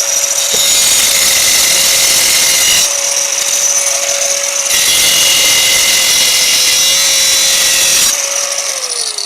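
Handheld power grinder running at a steady pitch while its disc grinds against concrete in several passes, the rasping noise changing as it bites. Near the end the motor is released and spins down with a falling whine.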